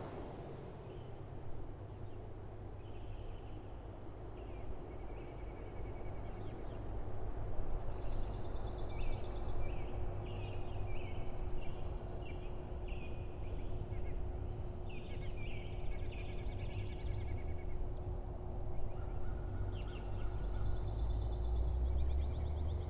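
Songbirds chirping and trilling in short repeated phrases over a steady low rumble.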